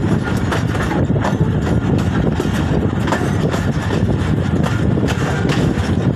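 Hazara Express passenger train running along the track: a steady low rumble with irregular clacks and rattles.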